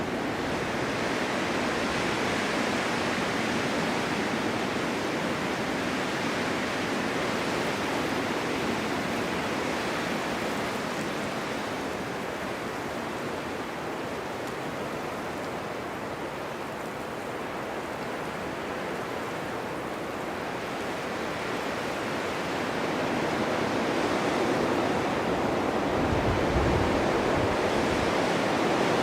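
Blizzard wind blowing snow: a steady rushing noise that eases a little midway and builds again near the end, with a brief low buffet of wind near the end.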